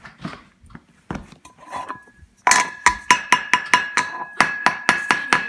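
Metal kitchenware being banged: a few light clinks and knocks, then from about two and a half seconds in a fast run of sharp metallic strikes, several a second, over a ringing tone that hangs on between them.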